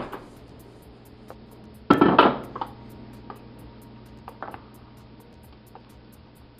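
Metal pressure cooker being opened: a loud clatter of the lid about two seconds in, then a few light metallic clinks.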